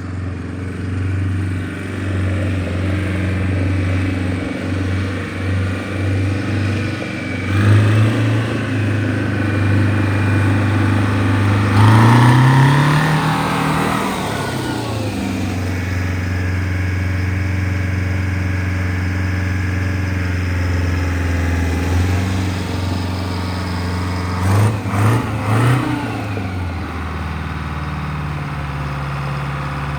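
Oliver 1900 tractor's General Motors 4-53 two-stroke blower diesel running steadily. It is revved briefly about eight seconds in, revved up and back down at about twelve seconds, and blipped a few times quickly around twenty-five seconds, then settles to a lower idle near the end.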